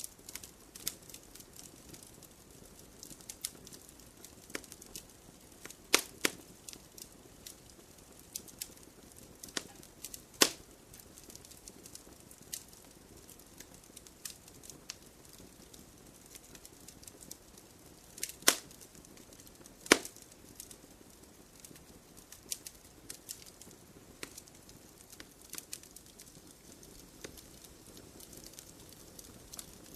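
Wood campfire burning with a soft steady hiss and irregular crackles, broken by a few sharp louder pops about 6, 10, 18 and 20 seconds in.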